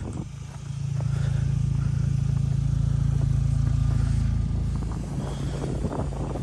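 Volkswagen Passat engine idling steadily, its hum swelling a little louder for a few seconds after the first second, with light scraping of snow from the windshield near the end.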